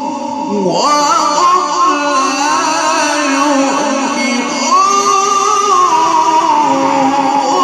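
A man reciting the Quran in melodic tajweed style. He sings one long ornamented phrase that enters about a second in, wavers up and down, and swells to a higher held note about two-thirds of the way through. His voice is carried through an amplified sound system, and earlier notes linger as steady echoes beneath it.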